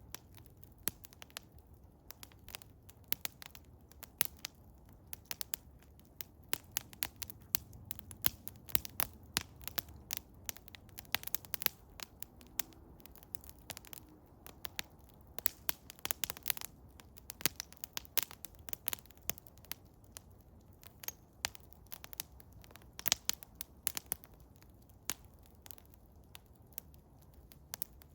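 Eastern hemlock wood fire crackling: irregular sharp pops and snaps, sometimes several in quick succession, over a faint low rumble.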